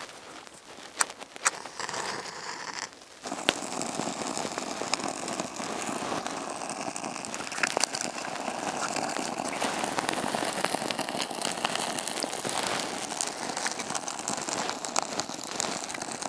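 Birch bark and thin kindling catching in a small pit fire and crackling. A few sharp clicks in the first three seconds, then a steady, dense crackle as the flames take hold.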